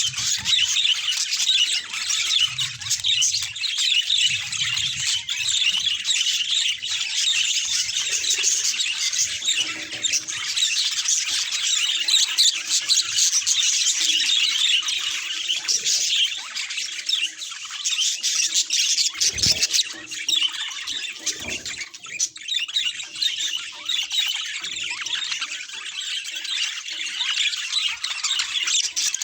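Budgerigars chattering and warbling without a break, a dense, high-pitched twittering with scattered squawks.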